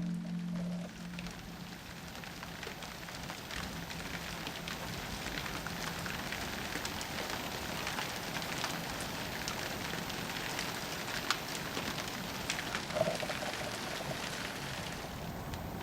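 Steady rain of a thunderstorm falling, with many separate drops and drips ticking on surfaces and a couple of sharper drop hits near the end. The tail of the intro music fades out in the first second.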